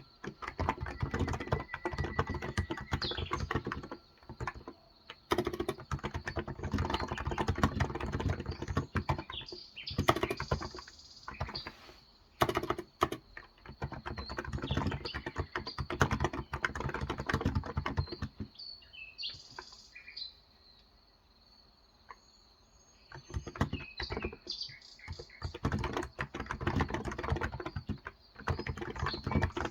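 Fast typing on a Cox Endeavour electrostatic capacitive (contactless) tenkeyless keyboard with 35 g keys, in long bursts of dense key clicks broken by a brief pause about four seconds in and a longer pause about two-thirds of the way through. Birds chirp in the background, heard most plainly during the longer pause.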